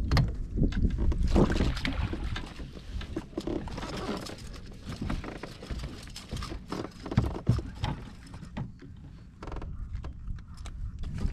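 Knocks and clicks of gear being handled aboard a fishing kayak, over a low, rumbling wind noise on the microphone; a short buzz comes about three quarters of the way in.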